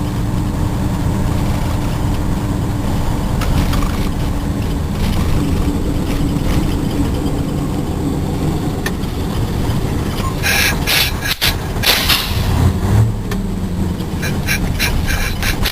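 Cement tanker truck's diesel engine running under way, a steady low rumble with road noise, heard from inside the cab. From about ten seconds in, a run of short clicks and rattles.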